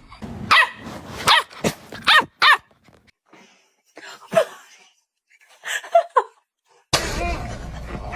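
A dog barking in short separate barks: about five in quick succession, then a single bark, then two more.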